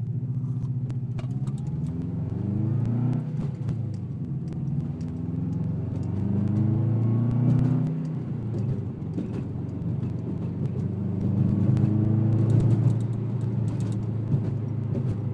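Turbocharged flat-four of a 2005 Subaru WRX wagon accelerating hard through a 3-inch Invidia N1 race exhaust with a catless downpipe and no silencer, heard from inside the car. The revs climb, drop back at an upshift, and climb again, then the engine pulls louder near the end.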